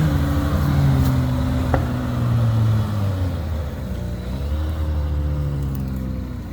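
A 4WD's engine working under load, its note rising and falling with the throttle, with a single sharp click about two seconds in.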